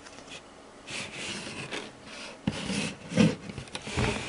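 Trading cards rubbing and sliding against each other as they are flipped through by hand: a few short dry swishes.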